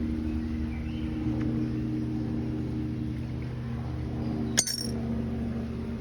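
A steady, low engine hum with one sharp metallic clink about four and a half seconds in.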